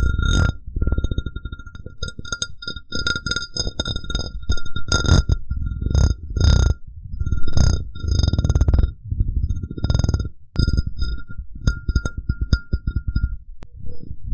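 Glass cup handled close to the microphone: repeated taps and strikes make it ring on a steady high note with higher overtones, over a low rubbing, scraping noise from the glass being rubbed and moved.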